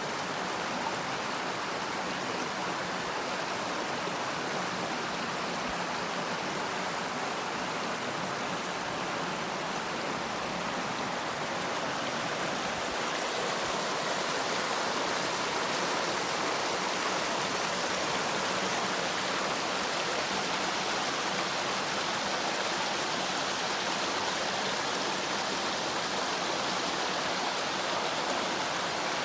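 Mountain river flowing and babbling steadily, a touch louder from about halfway through.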